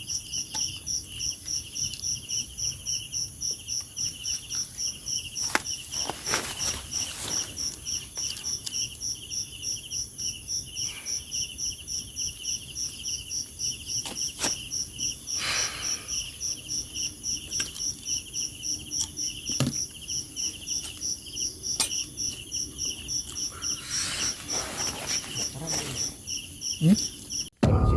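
Night insects, crickets, chirping in a regular pulsing rhythm of about two to three chirps a second over a steady high buzz, with a few faint rustles. The sound cuts off abruptly near the end.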